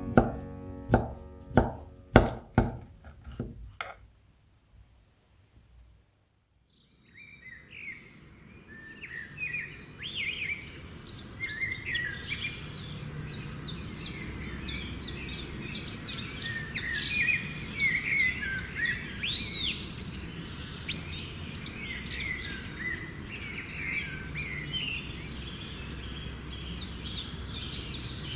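Plucked guitar music ends a few seconds in. After a brief near silence, many birds chirp and sing over a steady low background rumble of outdoor ambience.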